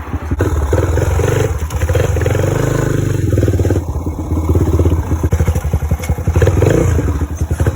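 Dirt bike engine running while ridden, its note rising and falling with the throttle.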